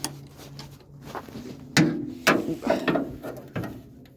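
A few sharp clicks and knocks with a short rattle, like small hard objects being handled, over a faint steady hum.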